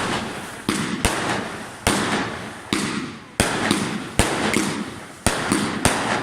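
Fireworks going off in quick succession: about a dozen sharp bangs, roughly two a second, each followed by a fading echo, with several close together near the end.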